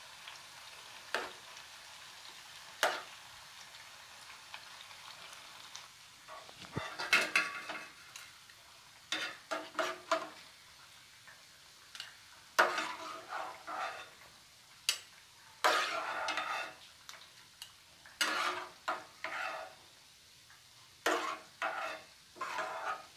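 Bread cubes deep-frying in hot oil with a steady sizzle, while a steel ladle scrapes and clinks against the pan and a steel mesh strainer in repeated short bursts as the fried pieces are lifted out.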